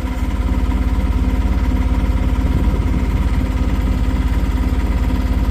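Boat engine running steadily, with a fast, even low throb.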